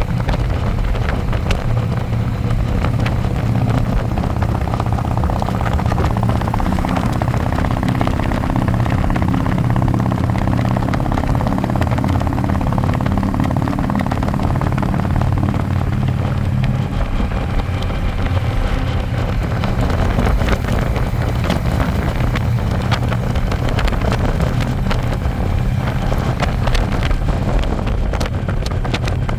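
Harley-Davidson Electra Glide's V-twin engine running steadily at road speed, heard from the pillion seat, with wind buffeting the microphone. The engine note is plainer in the first half and sinks under the wind noise later on.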